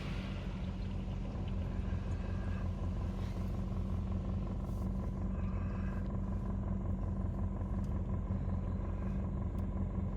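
Steady low hum of a car waiting in an automatic car wash bay, heard from inside the car as the rinse spray's hiss fades out in the first second.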